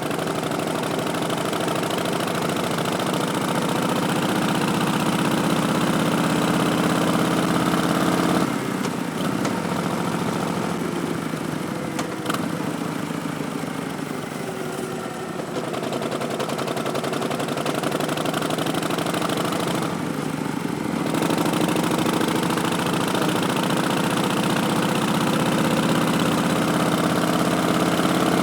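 Harley-Davidson Street Bob's Milwaukee-Eight 107 V-twin through Vance & Hines Twin Slash slip-on mufflers, pulling under throttle with the pitch rising. The throttle closes sharply about a third of the way in, and the bike pulls again from about halfway. A second short let-off comes about two-thirds in, and then it accelerates again.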